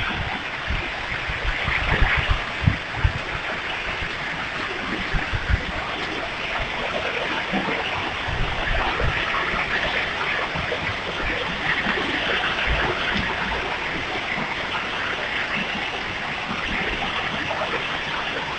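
Heavy rain pouring down in a strong windstorm, a dense steady hiss of falling water. Gusts thump on the microphone now and then, most often in the first few seconds.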